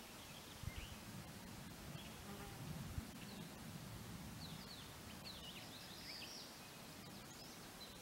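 Faint steady outdoor hiss with small birds chirping in short, quick, high notes, most of them in the second half. A few soft low thumps come in the first few seconds.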